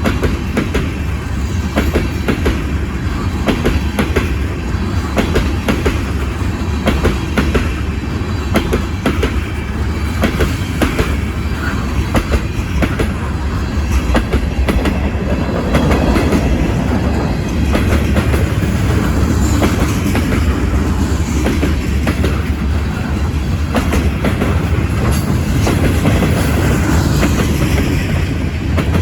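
CN freight train's cars rolling past, with a steady low rumble and wheels clicking over rail joints many times over.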